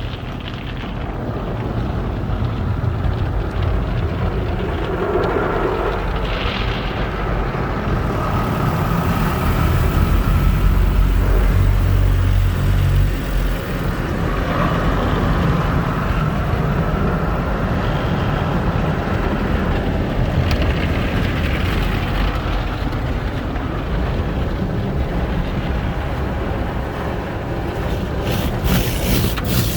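Automatic car wash tunnel heard from inside the car: a steady rush of spraying water and cloth wash equipment working over the car, with a low rumble under it. A quick run of sharp hits comes near the end.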